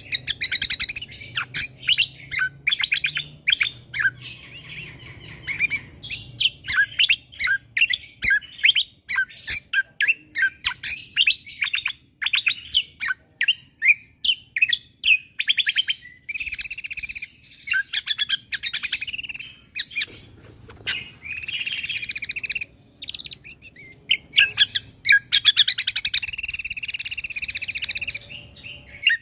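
Cucak kombo (kecial kombo) songbird singing in fast, closely packed strings of sharp chirps, the dense 'tembakan rapat' song. Several longer, rapid trills come in the second half.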